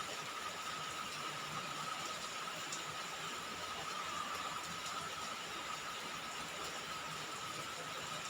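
Steady rain falling on a roof, an even hiss with no single drops standing out. A steady high tone runs through it.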